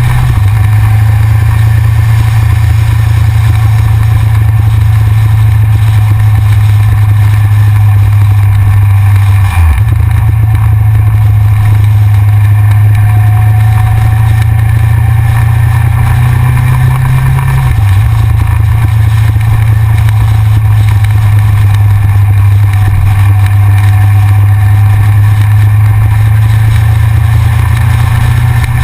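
Yamaha XJR inline-four motorcycle riding along, heard from a camera mounted on the front of the bike, with a loud steady low rumble from wind over the engine. The rumble breaks briefly about ten seconds in and again about eighteen seconds in.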